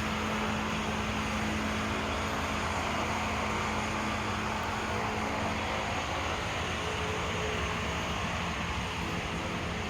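Steady vehicle noise with a low hum that fades out about six seconds in.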